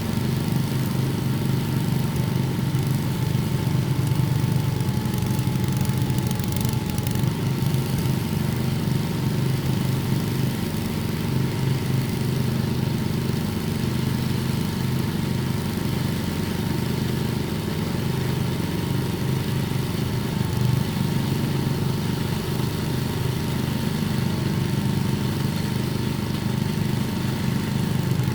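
An engine running steadily at a constant speed, with a thin steady whine above the low running note.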